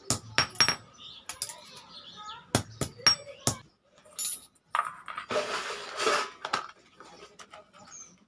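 Iron being worked with hand tools: sharp metallic knocks and clinks, three in quick succession at the start and four more around three seconds in. Then comes a rasping metal scrape lasting about a second.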